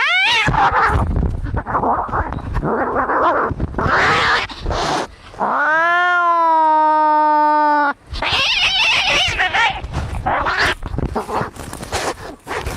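Cats fighting: harsh hissing and spitting growls, broken about halfway through by one long yowl of about two and a half seconds that rises at its start, then more spitting and hissing.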